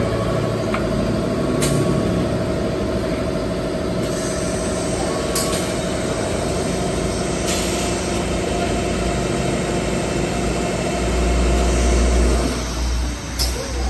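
Six-sided CNC drilling machine and robot running: a steady machine whine made of many tones, broken by a few short, sharp hisses, with the whine stopping about twelve and a half seconds in.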